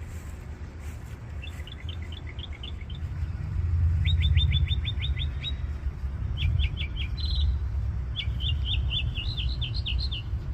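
Bald eagle's high, thin piping chatter: four or five quick runs of whistled notes, several notes a second, over a steady low rumble.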